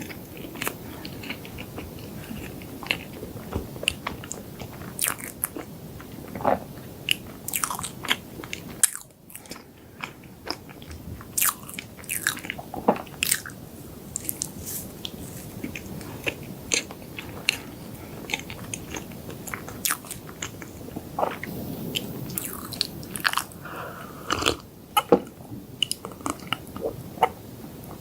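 Close-miked chewing and biting of chocolate desserts, with frequent sharp crunches and wet mouth clicks coming irregularly, pausing briefly about a third of the way in.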